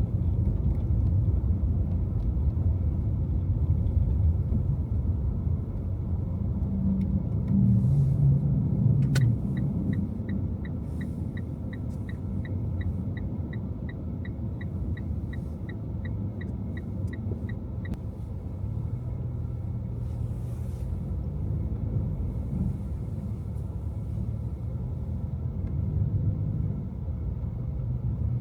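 Car driving on a snowy city street, a steady low road and engine rumble. About nine seconds in a sharp click, then the turn-signal indicator ticks evenly about twice a second for some nine seconds and stops.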